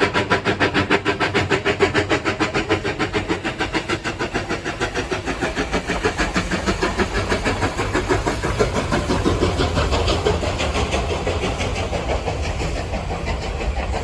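K-36 narrow-gauge steam locomotive working hard, its exhaust chuffing in a fast, even beat of about five a second. Past the middle the beat blurs into a heavier low rumble of the train running by.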